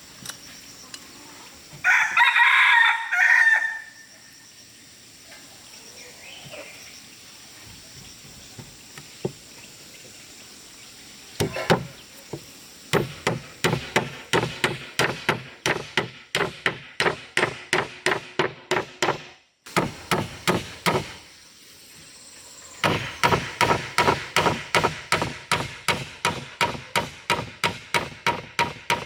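A rooster crows once, a few seconds in. Later comes steady, rapid hammering on wood, about three blows a second, which stops abruptly partway and then starts again.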